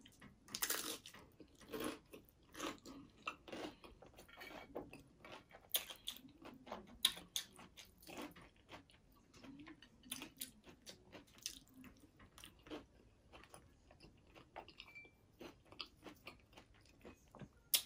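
Close-up chewing of a mouthful of taco salad on broken crispy taco shell: quiet, irregular crisp crunches that go on throughout.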